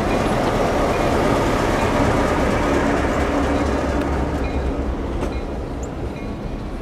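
Excursion passenger train running on the rails, with a steady low rumble and wheel noise that slowly eases off over the last few seconds.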